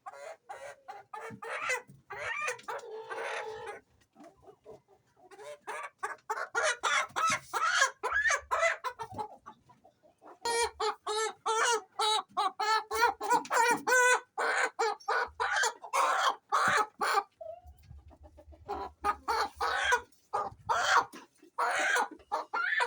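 A flock of local chickens clucking and calling in quick runs of short calls, with brief pauses between runs.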